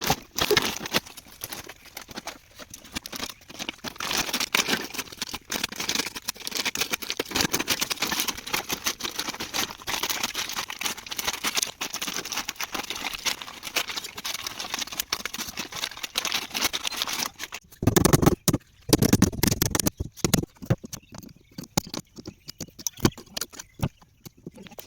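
Packaging being handled: dense crackling and rustling, like cardboard and plastic wrap. About eighteen seconds in it turns into heavier knocks and a low thudding, then thins out to scattered clicks.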